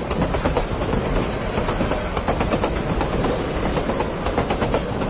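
Train running along the track, its wheels clattering steadily over the rails.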